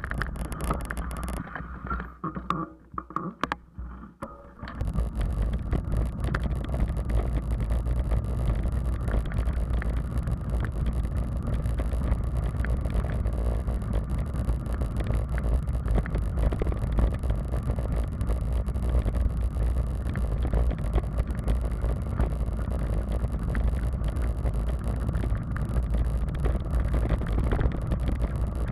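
Wind buffeting and road rumble on a camera microphone carried on a moving bicycle, a steady noisy rumble. It drops away for a few seconds near the start, then comes back and runs on evenly.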